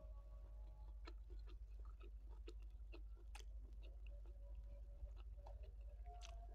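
Quiet eating sounds: soft, irregular small clicks of chewing with the mouth closed, while fingers pick at rice on a plate.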